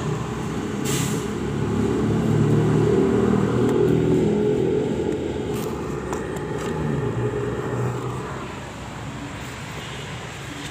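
A motor vehicle's engine running in the background, growing louder and then fading away in the second half, with a few light clicks over it.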